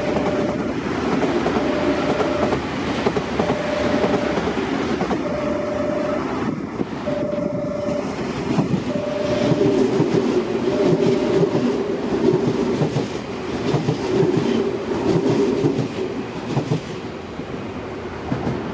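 Semboku Rapid Railway 7000-series electric train passing through the station without stopping, its wheels clattering over the rail joints, easing off near the end as the last car goes by. A short warning beep repeats about every two seconds, seven times, over the first eleven seconds.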